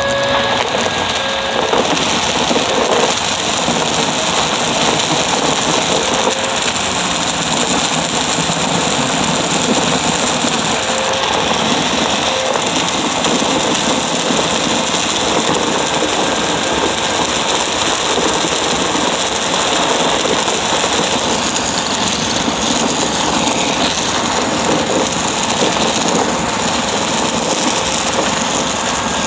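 Upright vacuum cleaner running steadily, its motor drone mixed with a dense crunchy crackle of debris being sucked up through the brushroll.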